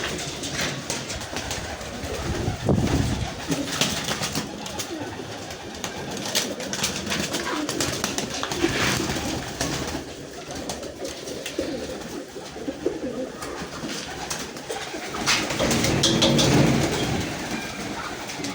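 Domestic pigeons cooing, with deep low calls loudest about three seconds in and again near the end, among scattered sharp clicks and rustles.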